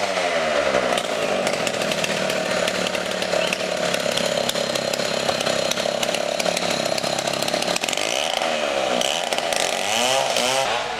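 A chainsaw running, its engine pitch rising and falling as it is revved near the start and again near the end, held fairly steady in between.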